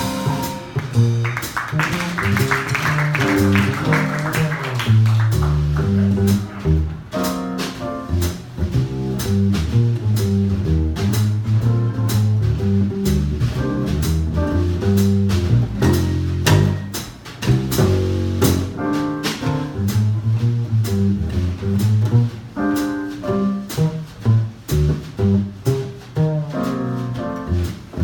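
Live jazz band in an instrumental passage: an upright double bass plays a plucked solo of low, moving notes, with light drums and piano behind it.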